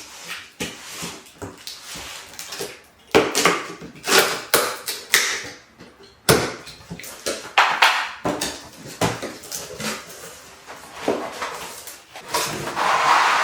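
A cardboard box and its packaging being handled and opened: irregular rustling, scraping and knocks, with a longer sliding rush near the end.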